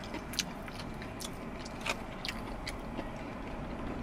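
Close-up chewing and mouth sounds of two people eating takeout food, with scattered short wet smacks and clicks over a faint steady low hum.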